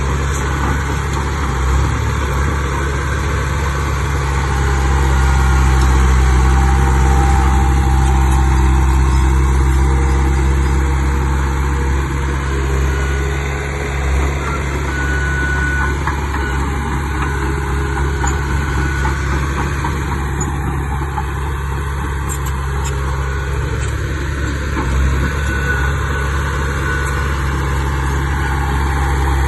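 Heavy diesel engine running steadily with a deep, even drone, growing louder for several seconds a little after the start before settling back.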